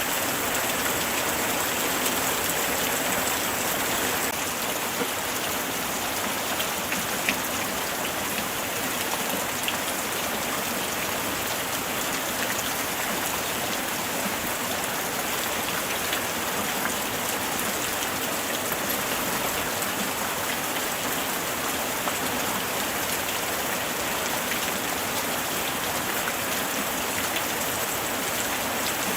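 Steady light rain falling, a dense even hiss of raindrops with faint scattered drip ticks.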